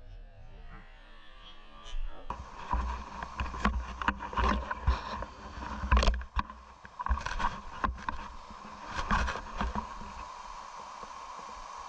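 Rushing stream water with irregular knocks and bumps close to the microphone, louder from about two seconds in.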